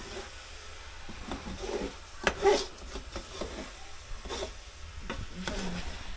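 A spoon stirring and scraping thick, browned coconut-and-sugar toffee in a cooking pot, with irregular scrapes and knocks against the pot.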